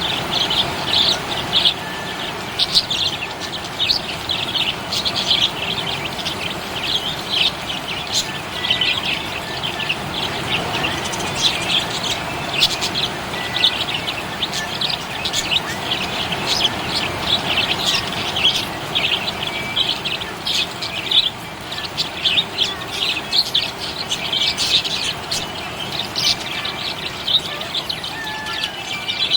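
Budgerigars chirping and chattering continuously, many short high chirps overlapping without pause.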